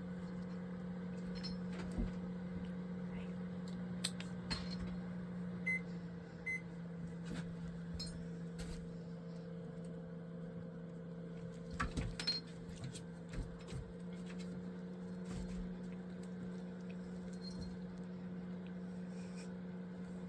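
A steady low electrical hum, like a small appliance or motor running, with scattered light clicks and taps on top.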